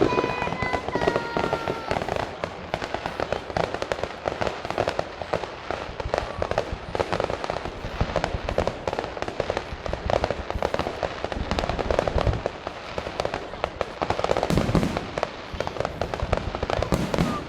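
Fireworks display going off in a dense barrage: rapid overlapping bangs and crackles, with a few heavier booms in the second half.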